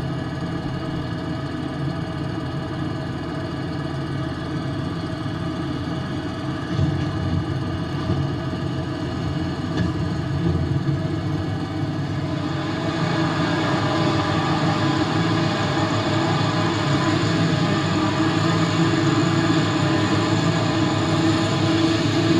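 Diesel tractor engine running steadily, getting louder and brighter from about halfway through.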